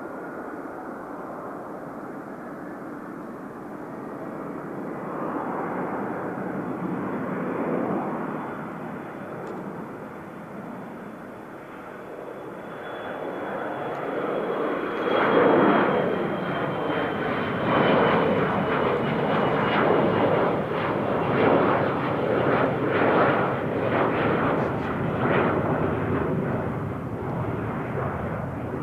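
Jet engines of an Embraer E170 airliner, its two General Electric CF34 turbofans, swelling to a loud peak about halfway in and staying loud and rough, with a thin high whine that slides slowly down in pitch.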